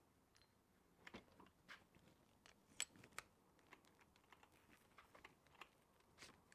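Faint, irregular small clicks and taps: an engine cylinder hone's stones and holders being handled.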